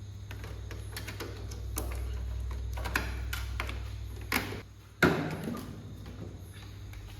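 A series of light clicks, taps and knocks of hard parts being handled, over a steady low hum. The hum fades out about four and a half seconds in, and a sharp knock about five seconds in is the loudest.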